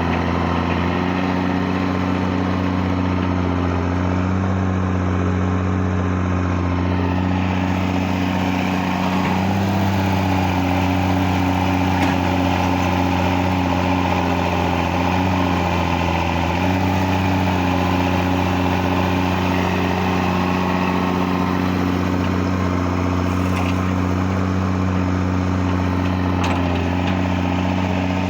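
Excavator's diesel engine running steadily, its pitch shifting slightly a few times.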